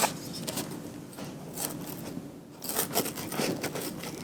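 Faint, irregular scraping and rustling of a package being handled and opened by hand, with a quieter stretch about two seconds in.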